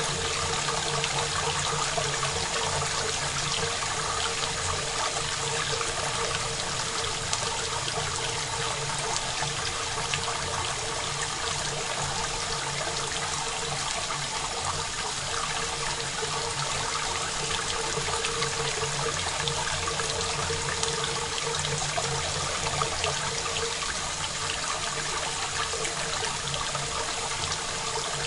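Steady rain, a dense even patter of drops with no echo.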